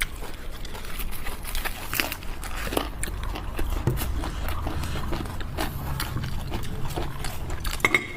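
A person chewing and biting food close to the microphone, with scattered small clicks and knocks.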